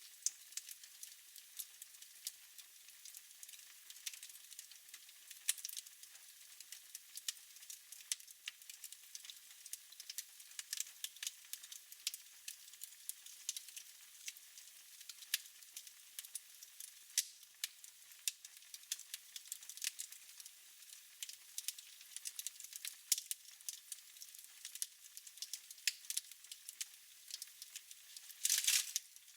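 Wood fire burning in a fireplace, crackling with irregular sharp pops, and a brief louder burst of crackle just before the end.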